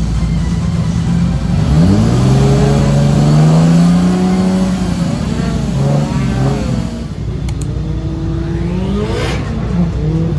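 Drift car engine revving hard, its pitch dipping and climbing repeatedly with throttle and gear changes, then dropping to a lower note about seven seconds in.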